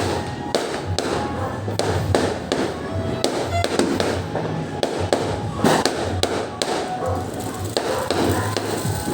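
Fireworks going off in quick, irregular pops and cracks, over background music.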